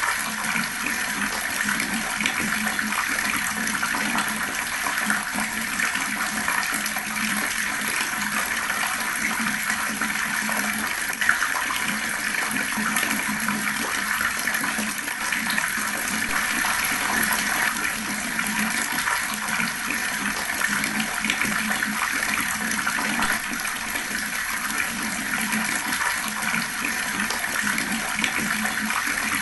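Fast-flowing water running steadily, an even splashing wash with no breaks.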